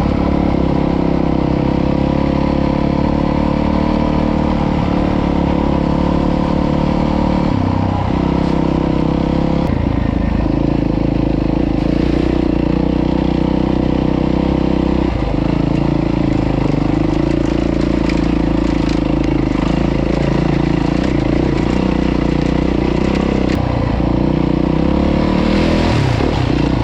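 Dirt bike engine running as the bike is ridden along a trail, its pitch dropping and picking up again a few times with the throttle.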